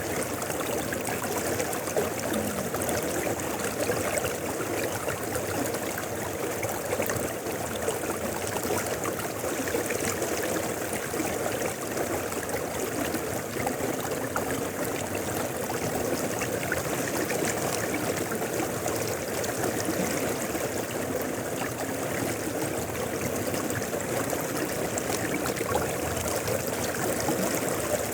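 River flowing steadily: a continuous, even rush of running water with no breaks.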